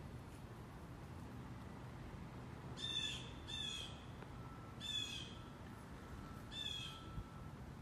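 A bird calling four times, in short calls: two close together about three seconds in, then two more spaced about two seconds apart.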